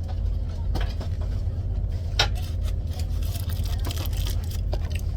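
Steady low rumble of a moving passenger train heard inside the carriage, with a few sharp clicks or knocks about one, two and five seconds in.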